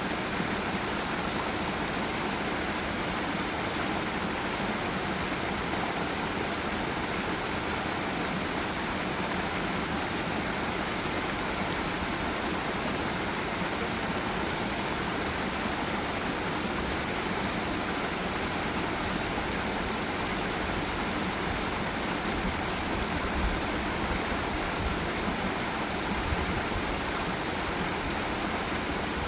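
Forest stream and small waterfall rushing steadily, an even wash of water noise without pauses.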